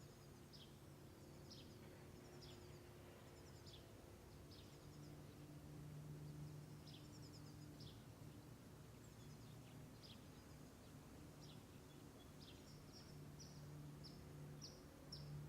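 Near silence: faint birds chirping, short high calls repeating about once a second and a little faster near the end, over a low steady hum of room tone.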